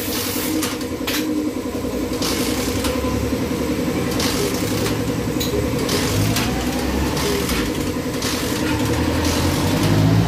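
Honda TMX motorcycle's single-cylinder four-stroke engine idling unevenly while it is repaired, with the revs rising near the end.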